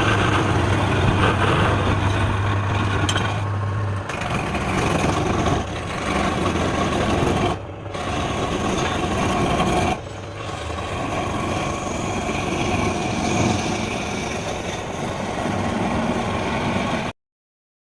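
An electric woodworking power tool running with a steady motor hum and cutting noise, in several stretches that break off abruptly at about 4, 8 and 10 seconds in. It stops suddenly near the end.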